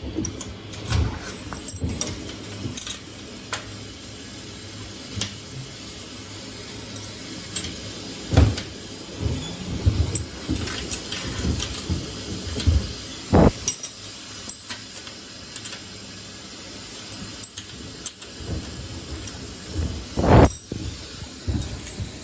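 Samsung front-loading washing machine at work on a load of sneakers: irregular knocks and thumps over a steady hiss, three of them standing out about eight, thirteen and twenty seconds in.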